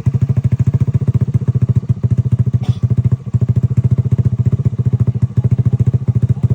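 Motorcycle engine running close by at low, steady revs, an even fast putter of about a dozen beats a second.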